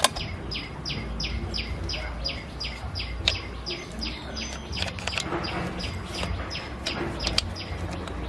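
A bird calling in a fast, even series of short falling chirps, about three or four a second, that fades away about five seconds in. Under it runs a steady low hum, with a few sharp knocks.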